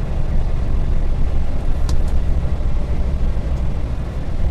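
Dongfeng truck's diesel engine and drivetrain heard from inside the cab while driving, a steady low rumble. A couple of short clicks about two seconds in.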